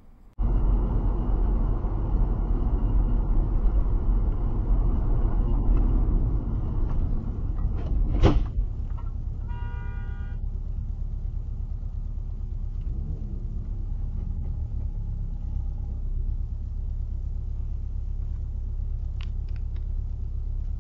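Heavy low rumble of a car on the road, loudest for the first eight seconds. A sharp knock comes about eight seconds in, followed by a car horn sounding for about a second, then a steadier, quieter rumble.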